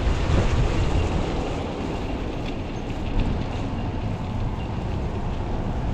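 Steady low rumble of wind on the microphone mixed with street and traffic noise.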